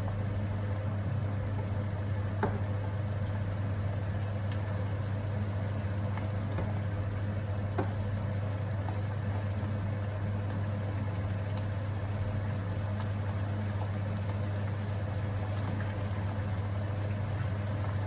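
Steady low mechanical hum with a faint hiss above it, and two light clicks, about two and a half and eight seconds in.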